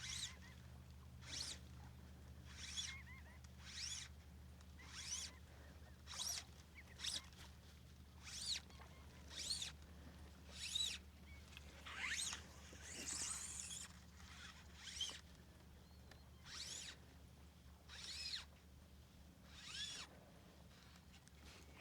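Fly line being stripped in by hand through the rod guides, a short zipping swish about once a second, the steady retrieve of a fly cast to a tailing redfish. The line is a textured fly line, which zips noticeably through the guides.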